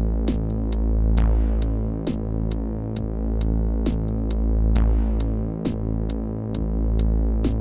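Roland JD-Xi synthesizer playing a sequenced electronic pattern: a pulsing, repeating synth-bass line under a steady run of drum-machine hi-hat ticks, with a falling sweep sounding twice.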